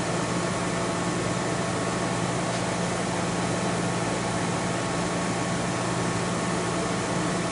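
Steady whoosh and hum of a portable air conditioner running, with a faint steady tone over it.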